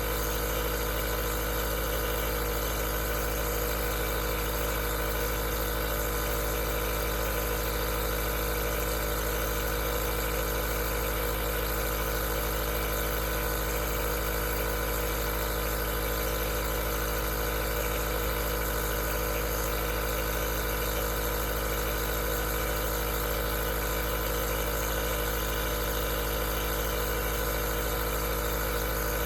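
Aerosol nebulizer's compressor running with a steady, unchanging motor hum and air hiss.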